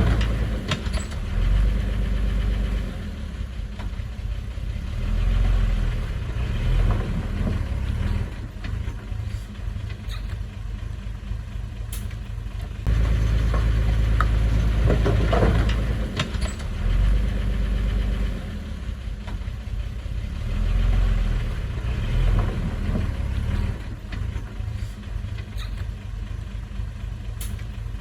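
Diesel engine of construction machinery running, rising and falling in loudness every few seconds as it works under load, with a few sharp clanks.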